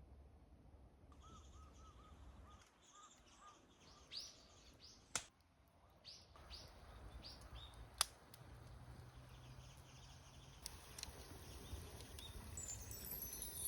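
Faint bird calls: a quick run of short chirps, then several descending calls a few seconds later, with two sharp clicks in between.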